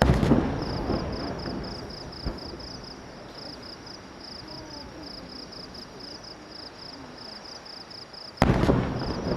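Two fireworks shells bursting with loud booms, one at the start and another about eight and a half seconds in, each fading over a second or so, with a smaller crack around two seconds in. Insects chirp in a fast, steady pulse throughout.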